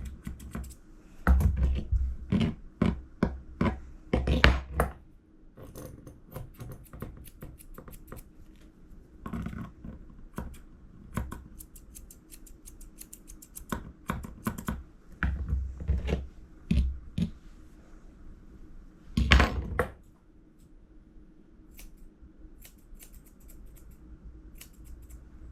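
Grooming scissors snipping irregularly as a puppy's paw fur is trimmed, mixed with knocks and rubbing from handling the puppy. One louder bump comes about three-quarters of the way through.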